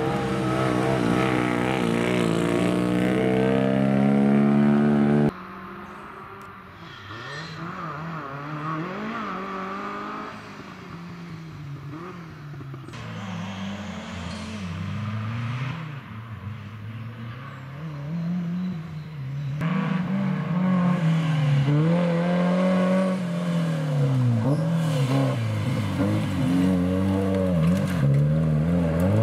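Engines of off-road racing 4x4s revving hard on a dirt track, the pitch climbing as they accelerate and dropping on gear changes and lifts. The sound cuts abruptly to a different car three times. It is loudest in the first five seconds and the last nine.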